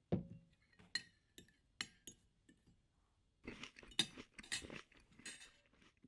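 A fork and knife clinking and scraping on a plate: a dull knock first, then four separate ringing clinks, then about two seconds of busy clattering and scraping of the cutlery on the plate.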